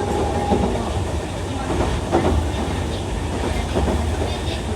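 Chikuho Electric Railway 3000-series articulated electric car running along the track: a steady rolling rumble with a few sharp clicks of the wheels.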